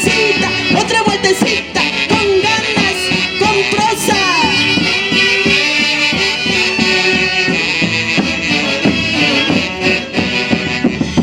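Live Andean folk orchestra playing an instrumental passage between sung verses: a reedy melody line over a steady, even beat.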